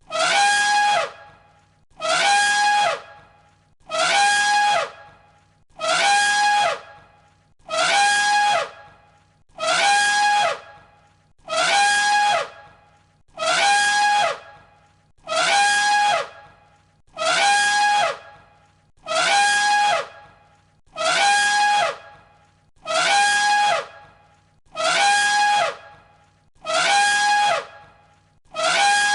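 Elephant trumpet call looped: the same call, about a second long, a falling sweep under a steady high tone, repeats identically about every second and a half.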